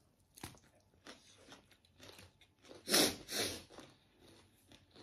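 Close-up crunchy chewing of singju, a salad of raw shredded vegetables: scattered crisp crunches, with a louder burst about three seconds in.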